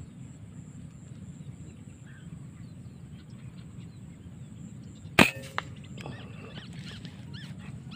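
A single sharp air rifle shot about five seconds in, loud and brief with a short ring after it, over a steady low background rumble; faint short chirps follow.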